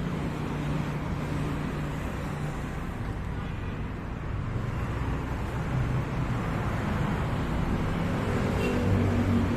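Road traffic: motor vehicle engines running and passing, a steady low hum that dips a little midway and swells again near the end.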